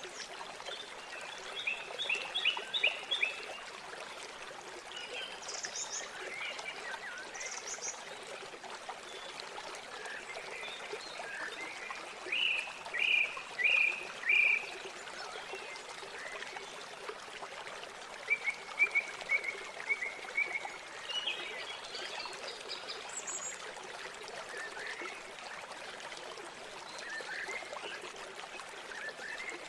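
River water flowing steadily, with birds calling over it: a cluster of quick chirps about two seconds in, four loud chirps around thirteen seconds, and a fast run of short notes around nineteen seconds.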